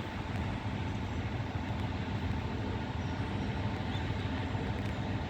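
Diesel locomotive idling at a standstill: a steady low rumble under the station's background noise.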